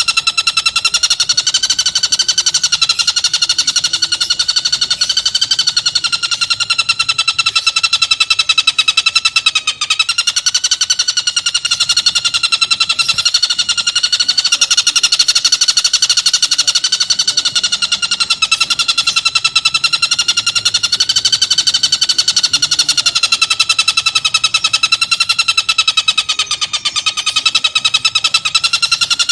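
Tengkek buto kingfisher giving a harsh, rapid rattling call, held on without a break at a steady, slightly wavering pitch.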